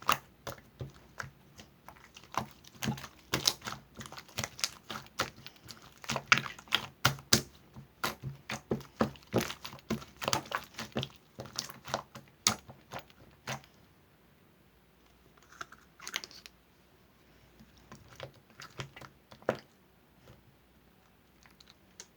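Rapid, irregular clicks and taps, several a second, like typing on a keyboard; after about 13 seconds they thin out to a few scattered clicks.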